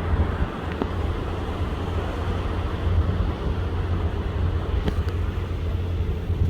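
Steady low rumble of a boat underway at sea: engine drone mixed with wind and water noise, with a couple of faint clicks.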